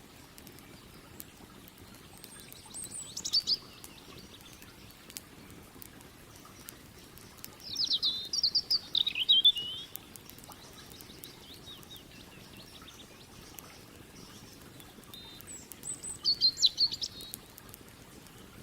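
A songbird sings three short, rapid trilled phrases, several seconds apart, over the scattered crackle of a campfire and the steady low rush of a river.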